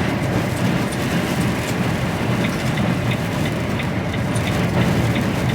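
Steady engine and road drone inside an HGV lorry's cab while driving at speed. From about halfway through, a light regular ticking joins it, about two or three ticks a second.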